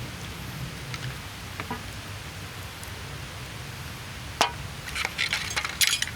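Steady patter of rain, broken by a sharp click about four and a half seconds in and a run of rustling clicks near the end.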